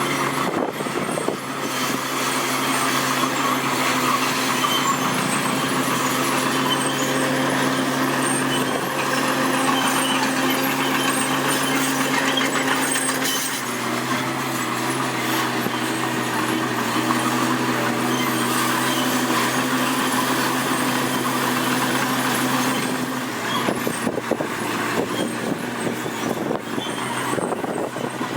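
Diesel engine of a Komatsu D41P bulldozer running steadily under load while pushing soil, its note shifting about halfway through.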